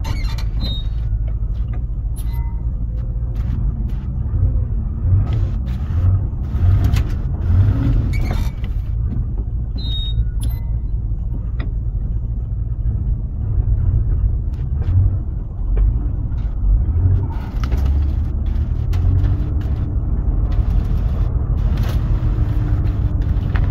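1981 Chevy K30's small-block 350 V8 running cold and rich, a steady low rumble broken by several sharp backfire pops. The untuned Quadrajet carburetor is drowning the engine in fuel.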